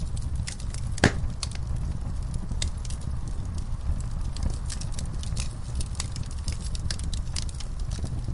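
Wood fire in a fireplace, crackling and popping over a steady low rumble of flames, with one loud pop about a second in.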